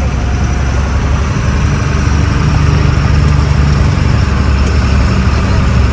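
Truck's diesel engine running steadily under way, a low drone that grows a little louder about two seconds in.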